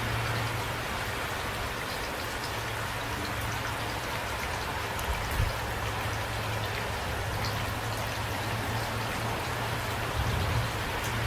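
Steady rain falling, an even patter of drops, with a couple of louder drops about halfway through and near the end.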